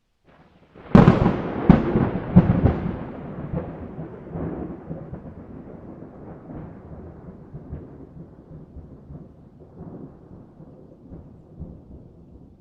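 A close thunderclap: a sharp crack about a second in, two more loud cracks over the next second and a half, then a long rumble that slowly dies away.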